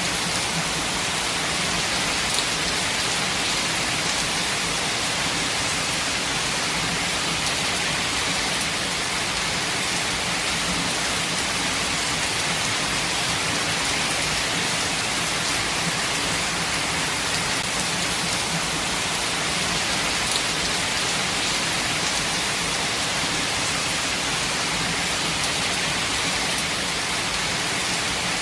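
Steady heavy rain falling, an even hiss of drops with a few louder individual drops standing out now and then.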